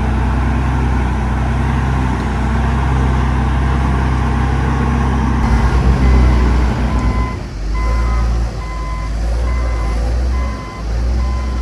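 Heavy diesel engine of an earthmoving machine running steadily, working harder and louder about halfway through. From about seven seconds in, a reversing alarm beeps about twice a second as the machine backs up.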